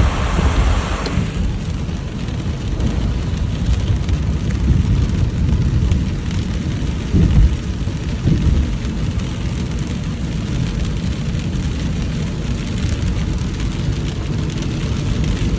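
Heavy downpour and rushing runoff water as a steady roar, with a strong deep rumble underneath. A louder hiss fades out about a second in.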